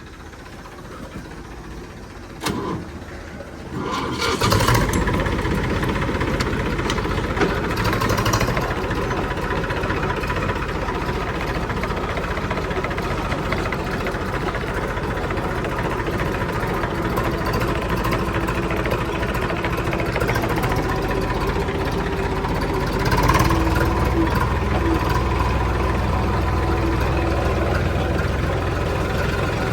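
Diesel engine of a heavy machine, quieter at first, then working hard from about four seconds in, with a louder surge near the end.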